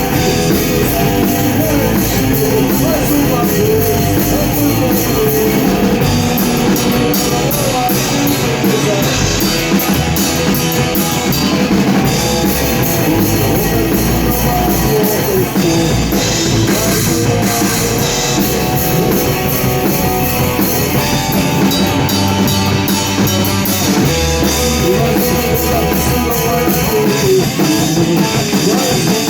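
A rock band playing a song live, with guitar and drum kit going together the whole time.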